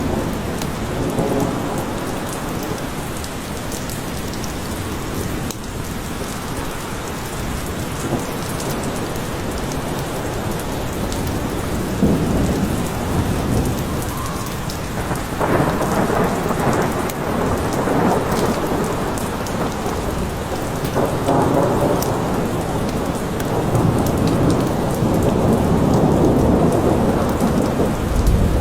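Steady rain falling in a forest, with long rolls of low thunder swelling up around the middle and again toward the end.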